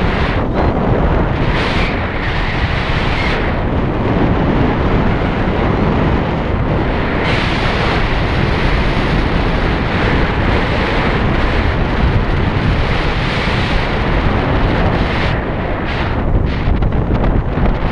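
Heavy wind buffeting the microphone on a moving motorcycle: a loud, steady rush with a deep rumble and no clear engine note.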